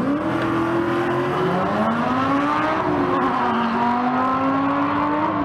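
A sleeper van and a Lamborghini launching off a drag-strip start line at full throttle: engine notes rise in pitch from the launch, one drops back about three seconds in at a gear change and climbs again.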